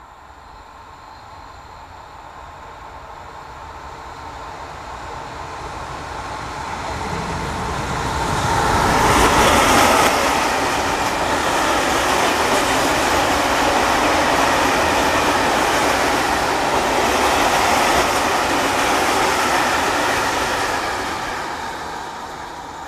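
Freight train passing at speed: the rumble of its wheels and wagons builds up, stays loud for about ten seconds, then fades away near the end.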